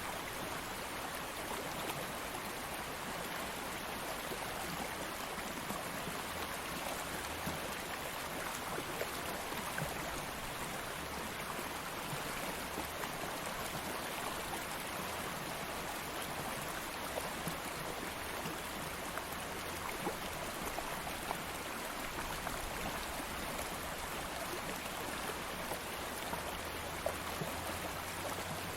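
Stream of water flowing steadily over rocks, a continuous rushing with small splashes and trickles through it.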